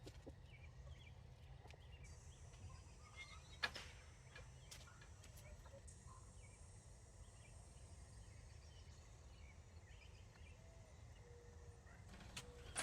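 Near silence: faint outdoor ambience with a low steady rumble and faint bird and fowl calls, broken by a single sharp click about three and a half seconds in.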